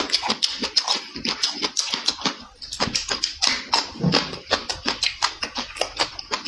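Close-up chewing and lip-smacking: a rapid, irregular run of wet smacks and clicks from a person eating with the mouth open.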